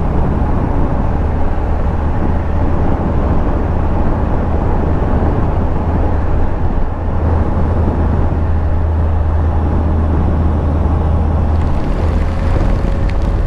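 2001 Yamaha Fazer FZS1000's inline-four engine running at a steady cruise, mixed with heavy wind rush over the helmet-mounted microphone. The engine note holds steady, shifting slightly near the end.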